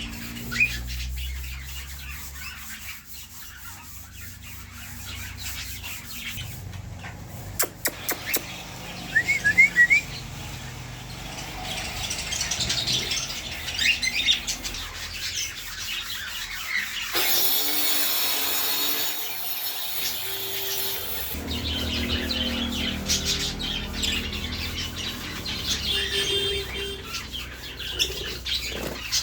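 Budgerigars and lovebirds chirping and chattering, with a few sharp clicks about a third of the way in and several seconds of hissing noise around the middle.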